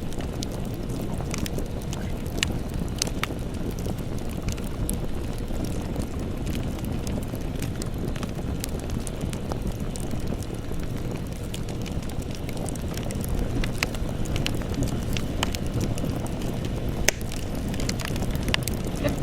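Wood campfire burning: a steady low rush of flames with scattered sharp crackles and pops, one louder pop about seventeen seconds in.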